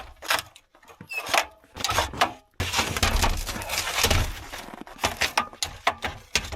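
Irregular knocks and clatters with a longer stretch of scraping about two and a half seconds in, as a folding ladder is shifted and set in place on a wooden cabin roof.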